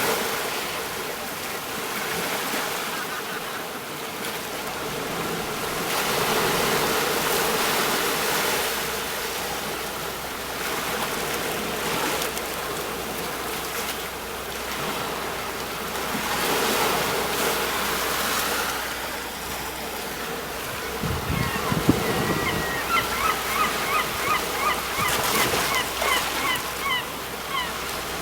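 Sea waves breaking on a shore: a steady wash that swells and ebbs every few seconds. In the last six seconds a bird calls in a quick run of short repeated notes over the surf.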